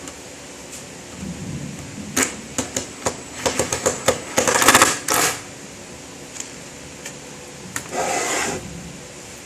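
Irregular clicking and clattering of a screwdriver, screws and metal parts being handled while a motor is screwed down to a wooden base, with two short scraping bursts about halfway through and near the end.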